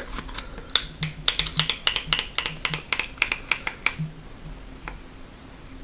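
Close-miked chewing of a mouthful of Whopper burger: rapid wet smacking and crunching clicks for about four seconds, thinning out near the end.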